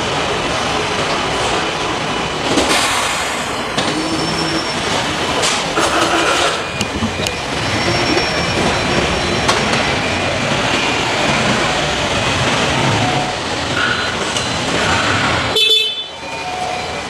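Steady din of motorcycle assembly-line machinery, with scattered clanks and clicks over it; it drops off abruptly near the end.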